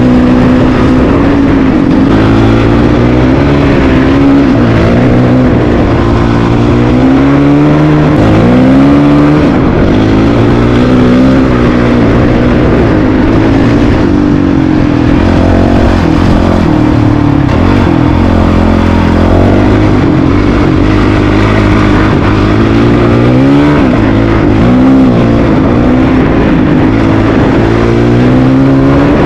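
Honda CRF450RL's single-cylinder four-stroke engine under load while riding, its pitch rising and falling again and again as the throttle is opened and closed and the gears change.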